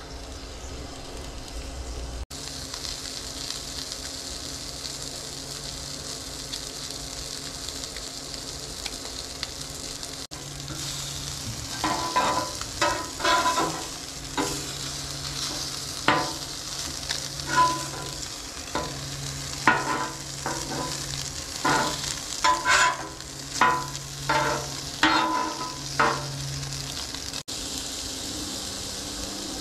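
Panko-breaded fish fillets sizzling in butter on the steel top of a propane Blackstone tabletop griddle, a steady hiss throughout. From about twelve seconds in, a metal spatula scrapes and clacks against the griddle top again and again as the fillets are flipped.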